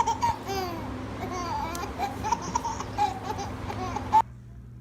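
A baby babbling and laughing in short repeated rising-and-falling calls, cut off abruptly near the end.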